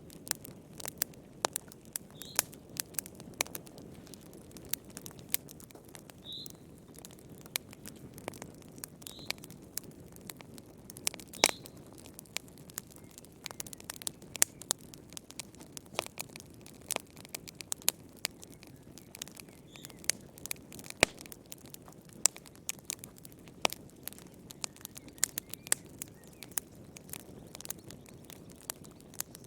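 Wood fire crackling in a fireplace: frequent irregular sharp pops and snaps over a low, steady rush of flames, with a few brief, faint high squeaks.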